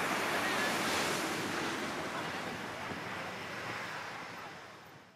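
Steady rushing noise of surf breaking, with wind on the microphone, fading out near the end.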